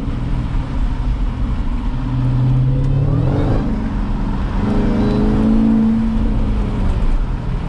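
Jeep Grand Cherokee Trackhawk's supercharged 6.2-litre V8 pulling away: the engine note rises about three seconds in, holds at higher revs for a few seconds, then eases off near the end.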